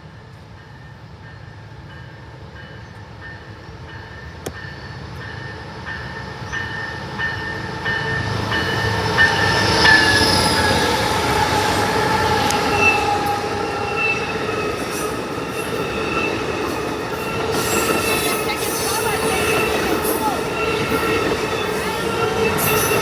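Amtrak passenger train led by Siemens Charger diesel locomotives approaching and passing on the track, growing louder over the first ten seconds or so. Once it is close, the steel wheels squeal steadily on the rails at several high pitches.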